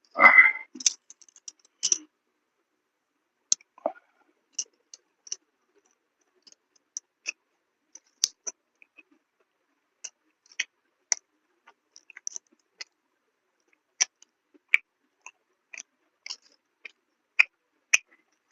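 Close-miked chewing and eating mouth sounds: a louder wet bite or smack near the start, then sparse, irregular soft clicks and smacks from the mouth as food is chewed.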